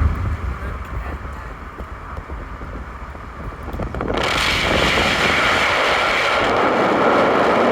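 Car interior while driving: a low road rumble, then about four seconds in a sudden, steady rush of wind or air noise that stays loud.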